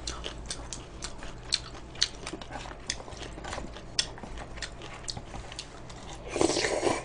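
Close-up mouth sounds of chewing crunchy fried chicken: many small sharp crunches and clicks. There is a louder burst of noise about six and a half seconds in.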